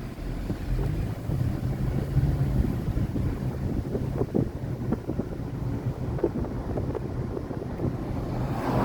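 An engine running steadily with a low hum, wind buffeting the microphone, and a few short knocks about halfway through.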